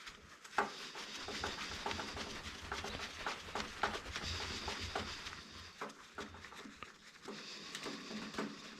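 Small scrap electronics parts being handled and pulled apart: a run of light clicks, knocks and rattles over a steady hiss.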